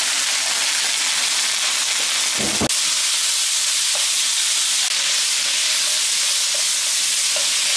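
Chopped beef rib-finger meat with onions, leeks and green peppers sizzling steadily in a hot frying pan while being stirred with chopsticks. A brief knock comes about two and a half seconds in.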